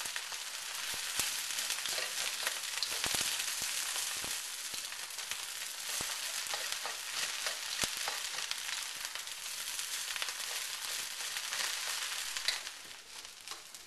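Rice frying in a hot wok with soy sauce and egg: a steady sizzle broken by many short clicks and scrapes as it is stirred. The sizzle drops away near the end.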